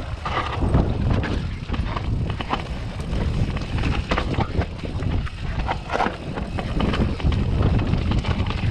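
Wind buffeting the microphone while a 2020 Transition Patrol mountain bike rides a dirt trail, with scattered knocks and rattles from the bike over rough ground.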